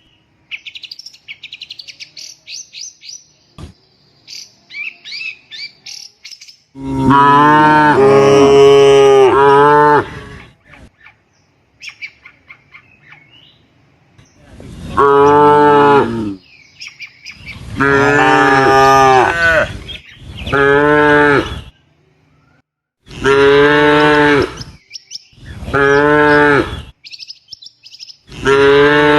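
Cattle mooing again and again: about seven long, loud moos, the first and longest about seven seconds in, then the rest following every few seconds. Small birds chirp in the quiet stretches, most of all in the first few seconds.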